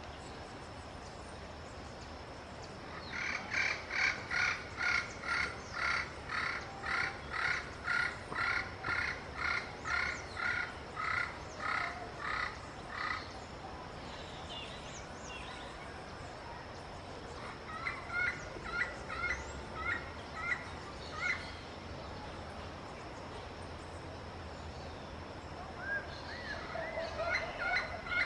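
Yellow-fronted parrot calling in a long rhythmic series of repeated notes, about two a second for some ten seconds, then two shorter runs of the same call near the end.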